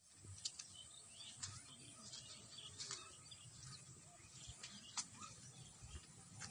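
Faint birds chirping, with a few sharp clicks scattered through.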